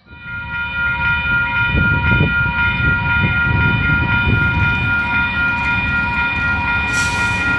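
Freight train hauled by EF-class electric locomotives passing with its horn held in one long steady blast over the rumble of the locomotives and wagons. A short hiss comes in near the end.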